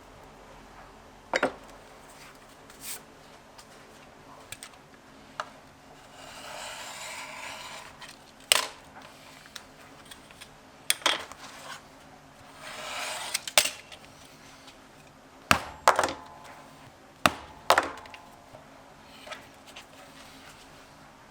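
Leatherworking bench sounds: scattered sharp taps and knocks as tools and leather are handled and set down on a hard work surface. There are two longer stretches of hissy scraping, about six and thirteen seconds in.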